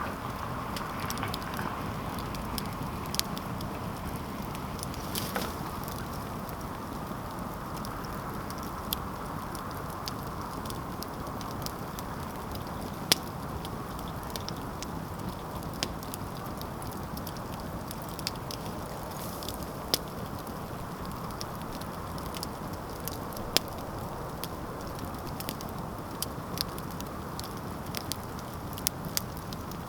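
Wood campfire crackling over a steady hiss, with sharp pops every second or so and a few louder snaps scattered through.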